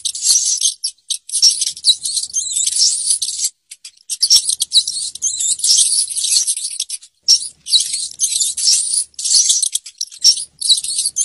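Rat squeaking: rapid, high-pitched squeaks and chitters in long runs broken by short gaps.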